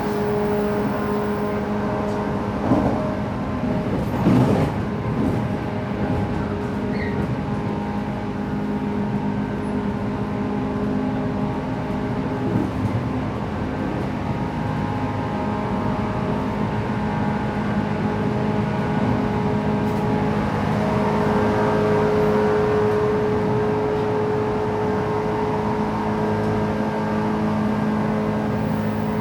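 Running sound inside a 117 series electric train car at speed: the steady hum of traction motors and gears over rail and wheel noise, with two brief knocks a few seconds in.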